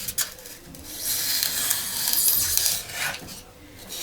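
Utility knife blade drawn through a sheet of material, a long scraping cut lasting about two seconds, after a couple of light clicks at the start.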